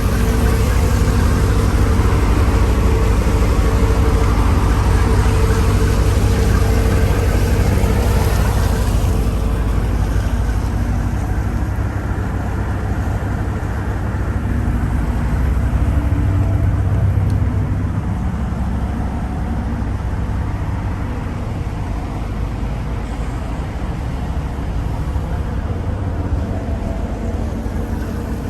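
Caterpillar C18 inline-six diesel engine running steadily while warming up, a loud, constant low drone. It turns slightly quieter about ten seconds in.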